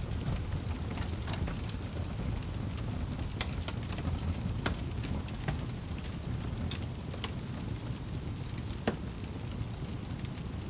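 Wood fire crackling over a steady low rumble, with scattered snaps and pops. One sharper pop comes about nine seconds in.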